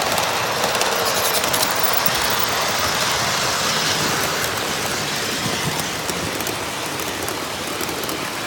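Model trains running on a layout's track: a steady rail noise with fine clicking, easing off slightly toward the end.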